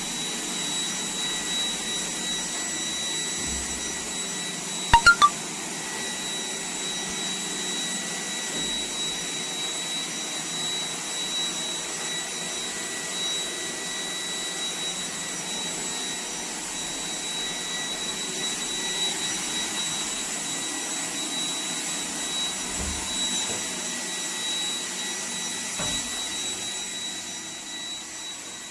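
iRobot Roomba 105 Combo robot vacuum running steadily: a whirring suction motor with a constant high whine. About five seconds in come three quick sharp clicks.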